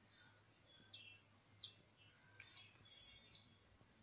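Faint high bird calls, a short note sliding down in pitch repeated about six times, roughly one every three-quarters of a second.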